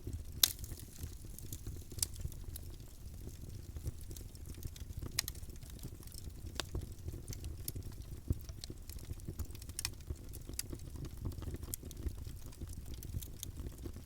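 Campfire burning: a steady low rumble of flames with scattered sharp crackles and pops, the loudest about half a second in.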